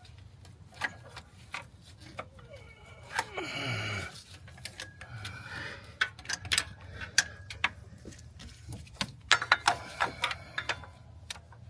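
Irregular metallic clicks and taps of hand tools working on the engine, coming in quick clusters around the middle and near the end. A short strained grunt comes about three to four seconds in.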